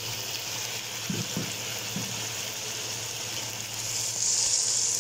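Onion-tomato masala thinned with water sizzling in a metal pan, a steady hiss that grows louder about four seconds in.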